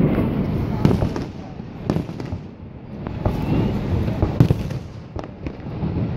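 Fireworks shells bursting overhead: about six sharp bangs spread over the few seconds, the loudest about a second in and again past the middle, over a steady low rumble.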